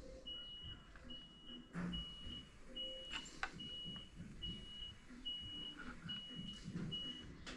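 A regular series of high electronic beeps, one a little under every second, nine in all, each about half a second long at a single pitch, with a couple of clicks in between.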